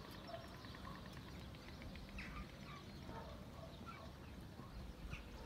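Faint bird chirps, a few short calls scattered through, over a low steady rumble of wind on the microphone.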